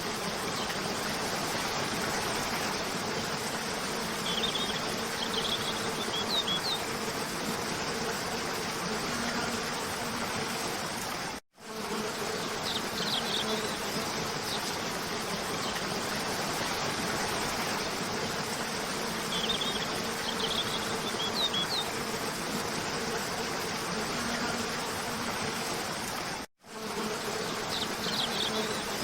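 Cascade waterfall rushing as a steady, even noise, with short high bird chirps every several seconds. The sound cuts out for a split second twice.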